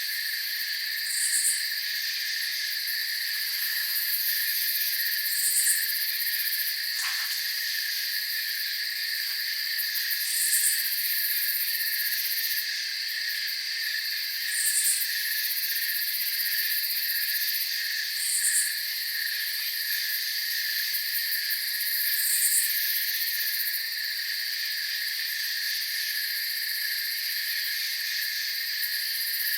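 Crickets trilling in a steady night chorus, with a short high chirp about every four seconds.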